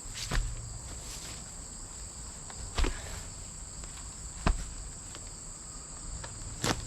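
Steady high-pitched chorus of field insects, with four sharp thumps spread irregularly across it from pieces of cut wood being handled and moved by hand.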